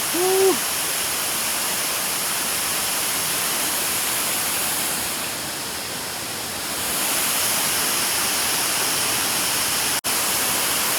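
Waterfall rushing with a steady, even roar. A short "woo" shout comes right at the start, and the sound drops out for an instant about ten seconds in.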